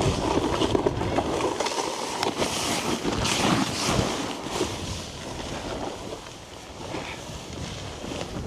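Snowboard sliding and scraping over icy, bumpy snow, with wind rushing over the microphone. The sound is louder in the first half and eases off after about five seconds.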